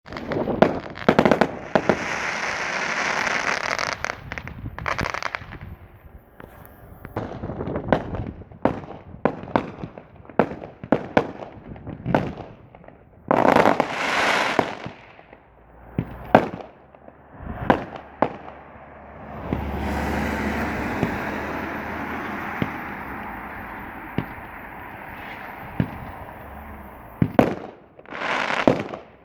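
Fireworks going off: repeated sharp bangs at irregular intervals, with stretches of crackling hiss, the longest running from about two-thirds of the way in until near the end.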